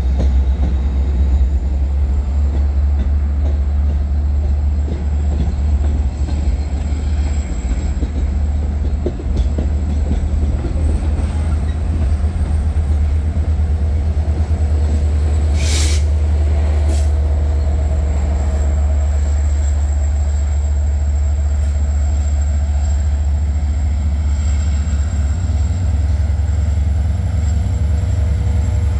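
Long Island Rail Road bilevel passenger train rolling slowly along the platform, its dual-mode locomotive coming up alongside at the end: a steady low rumble with a thin, slowly rising high wheel squeal. Two brief sharp noises about a second apart come near the middle.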